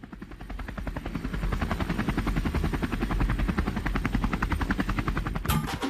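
Helicopter rotor chopping in a fast, even rhythm over a low rumble, fading in over the first second or so. Music comes in near the end.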